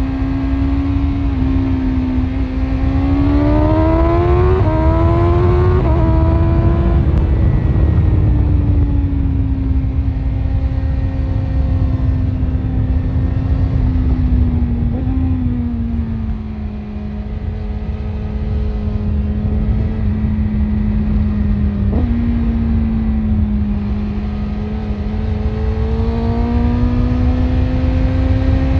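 BMW S1000RR inline-four engine with an Akrapovic exhaust, running under way. The note climbs under acceleration a few seconds in, then holds fairly steady and drops a little in the middle. It leaps briefly about three-quarters of the way through, then rises gently again near the end. A steady low rumble runs underneath.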